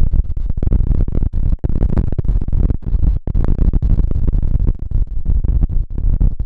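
Ocean surf on a beach: a continuous, heavy low rumble of waves, with the level flickering up and down and no single breaking wave standing out.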